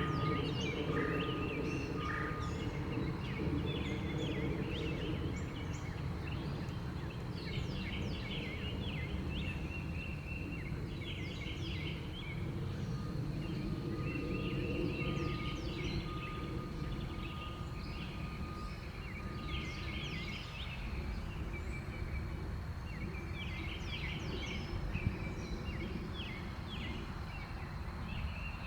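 Backyard songbirds chirping and chattering in quick clusters of short calls, over a steady low background rumble.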